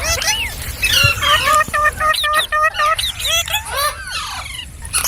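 Green parrots calling: a run of quick sliding chirps and squawks, with a fast string of short repeated notes about two seconds in.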